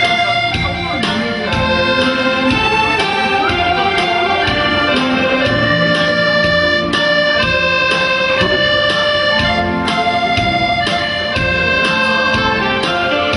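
Accordion playing a Korean trot melody in long held notes over a steady, rhythmic bass accompaniment.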